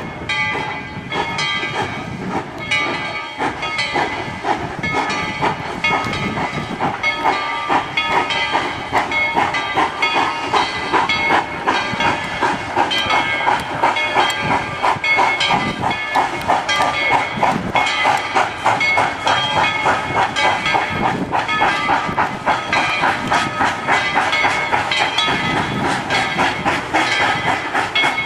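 Two steam locomotives of a doubleheader working past, with fast, rhythmic exhaust chuffs and hissing steam. The chuffing grows quicker and denser after the first several seconds.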